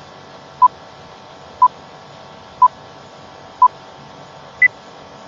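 Quiz countdown timer beeping once a second: four short beeps at one pitch, then a last beep at a higher pitch near the end that marks the end of the countdown. Faint steady hiss underneath.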